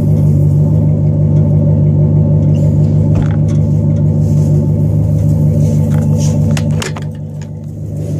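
2000 Chevrolet Silverado 1500's 5.3-litre V8 running steadily through a catless, single-in dual-out exhaust with Thrush welded mufflers, a low even exhaust note. It eases off about seven seconds in.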